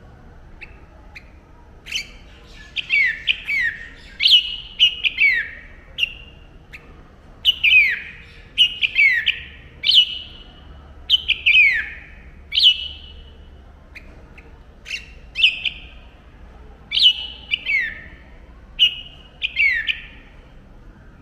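Red-whiskered bulbul calling: loud, quickly repeated notes that each slide downward, in short clusters about every second, starting about two seconds in.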